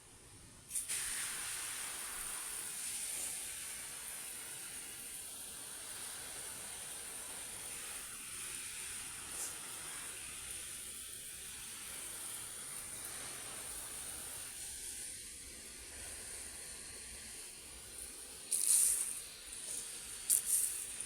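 Garden hose spraying water onto plants: a steady hiss that starts about a second in, with a few louder bursts near the end.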